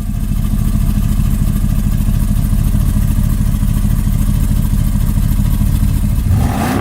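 Car engine running loudly with a steady low pulsing rumble, rising in pitch as it revs up near the end.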